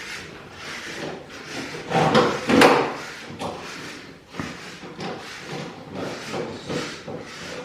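Wooden parts sliding and knocking against each other in a series of short scrapes and knocks, loudest about two seconds in, like a drawer or panel being pushed in and out.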